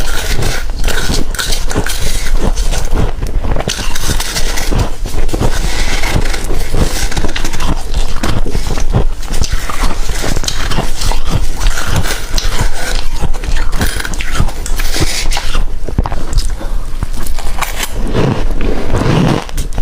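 Humidifier frost being scraped and crunched up close, a dense, unbroken run of crisp crackles, with a deeper crunch near the end.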